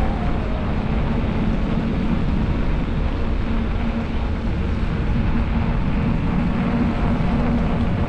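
Motorcycle riding at a steady speed: wind rushing over the microphone, with the engine's steady hum underneath.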